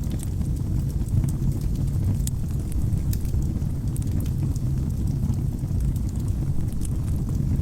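Wood fire burning in a fireplace: a steady low rumble of flames, with scattered sharp crackles and pops from the burning logs.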